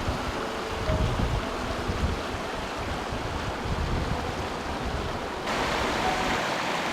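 Wind buffeting the microphone over a steady outdoor rushing noise; about five and a half seconds in, the rush turns abruptly brighter and a little louder.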